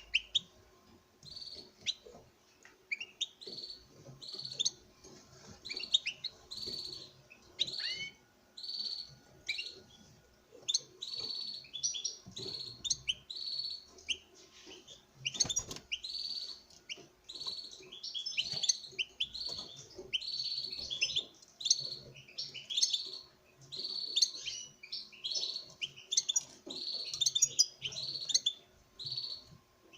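Male European goldfinch singing its twittering courtship song to a female: a fast, continuous run of short high chirps and trills with only brief pauses.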